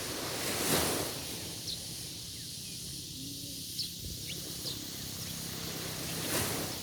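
Outdoor nature ambience: scattered short bird chirps over a steady high hiss, with two brief swells of rushing noise, about a second in and again near the end.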